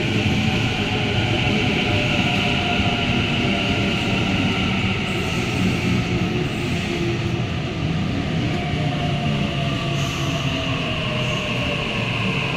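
Electric suburban passenger train of Sydney Trains running at the platform, a steady rumble and hiss with a faint motor whine that slides slowly down in pitch in the second half.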